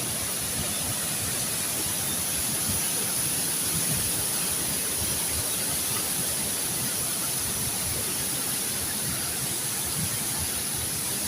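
Steady rushing of a waterfall and its stream.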